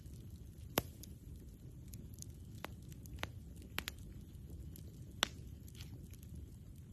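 Wood campfire crackling: about half a dozen sharp pops and snaps, the loudest about a second in and again about five seconds in, over a low steady rumble.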